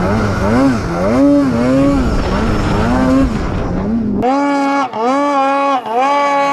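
Two-stroke snowmobile engine of a Polaris 9R revving up and down repeatedly through powder turns, over a rumble of track and snow. About four seconds in the rumble drops away suddenly, leaving the engine held at steady high revs, dipping briefly twice.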